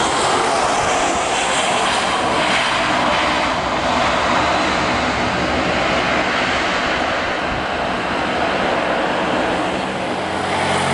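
Airbus A320-214 airliner landing close by, the jet noise of its CFM56 engines a loud, steady rush that slowly dulls in its upper register toward the end as it moves away.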